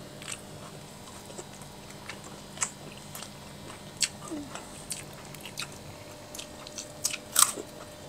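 Close, wet mouth sounds of people eating rice and chicken by hand, picked up by clip-on microphones: scattered chewing smacks and small clicks, the loudest about seven seconds in.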